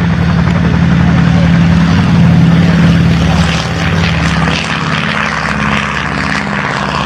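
Avro Anson Mk.I's twin Armstrong Siddeley Cheetah radial engines and propellers passing in a display flypast, a steady engine note that is loudest about two to three seconds in and then eases off.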